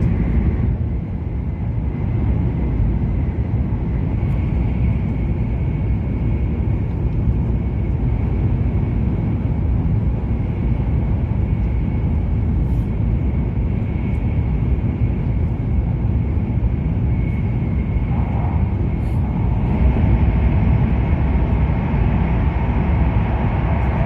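E7-series shinkansen running at speed, heard from inside the passenger cabin: a steady low rumble and rush with a faint thin whine, growing louder and brighter about twenty seconds in.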